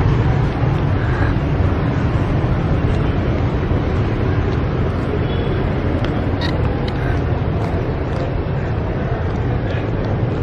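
Steady street noise of road traffic, a continuous low rumble with a few faint ticks.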